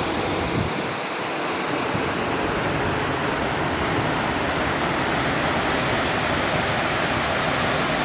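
Large waterfall rushing steadily: a continuous, even noise of falling water.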